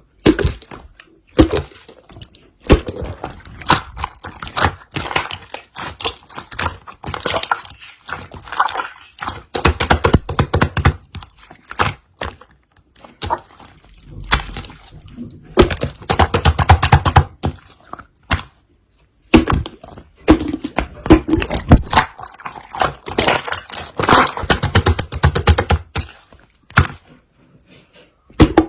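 Marbled pearl slime being squished, pressed and stretched by hand, giving rapid sticky clicks, snaps and small air pops in runs with short pauses between them.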